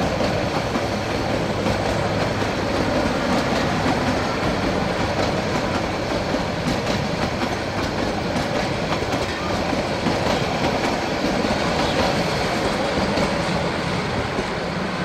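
Bangladesh Railway passenger coaches rolling past, a steady noise of wheels running on the rails.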